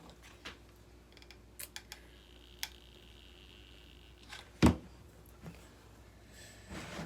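Small clicks and taps of hands working with hot-glue craft materials, with one louder knock about two-thirds of the way through.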